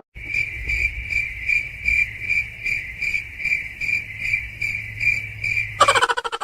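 Cricket chirping, the steady high chirp pulsing about two to three times a second over a low hum. It stops suddenly near the end and is followed by a fast rattling series of clicks.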